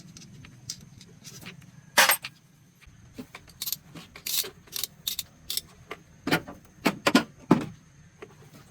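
Metal hand tools and engine parts clinking and clanking as they are handled: one loud clank about two seconds in, then a run of irregular sharper clinks, loudest near the end.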